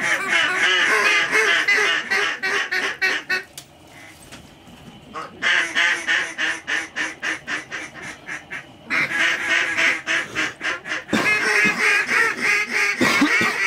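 Duck calls blown by hunters: three long runs of rapid quacking chatter, with short pauses about 4 and 9 seconds in, calling in ducks ahead of a shot.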